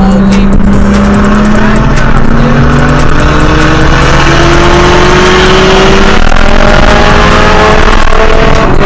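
Nissan 370Z's 3.7-litre V6 with aftermarket intake and exhaust, pulling hard on the highway, its pitch rising steadily as the car gains speed, over loud road and wind noise.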